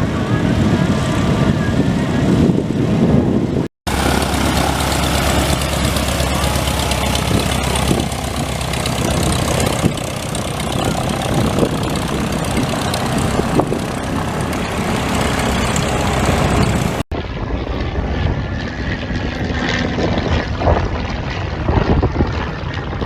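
Propeller-driven light aircraft engine running, heard in three separate clips joined by abrupt cuts, with a steady low drone through the middle clip.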